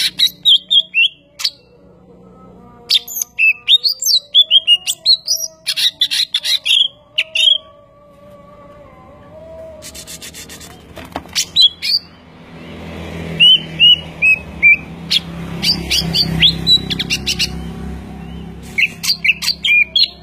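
Bird chirping in quick runs of short, high notes, over and over with short pauses. A low rushing noise rises in the middle and fades again.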